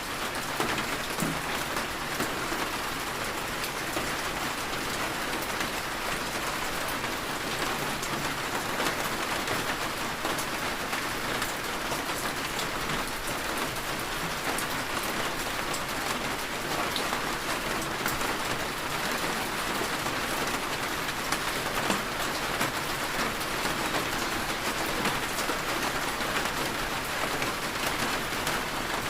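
Heavy rain falling steadily, a dense even hiss dotted with the small ticks of individual drops striking.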